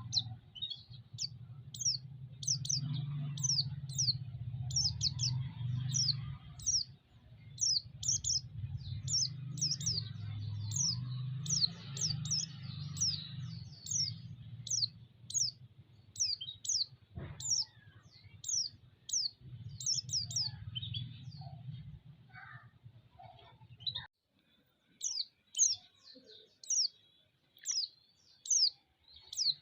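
White-eye (pleci) calling over and over in short, high chirps that each drop in pitch, roughly two a second, the repeated call used as a lure to rouse other pleci. A low steady hum lies underneath and cuts off about 24 seconds in.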